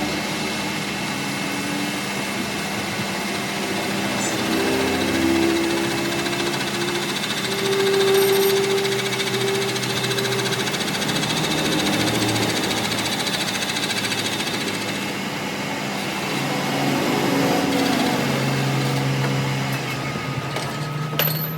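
A workshop machine running steadily, a continuous mechanical hum with tones that shift in pitch now and then.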